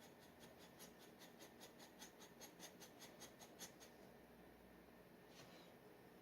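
A G-nib dip pen scratching across paper in quick, short strokes like hatching, about five a second, pausing, then one more stroke near the end. Faint.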